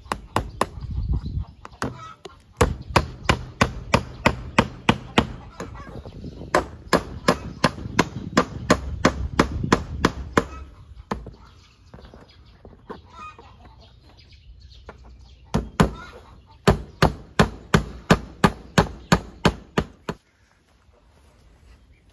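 Hammer driving nails: runs of quick, even blows, about three a second, with short pauses between runs, while chickens cluck.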